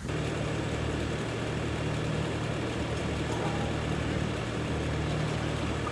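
Engine or heavy machinery running steadily with a low, even hum.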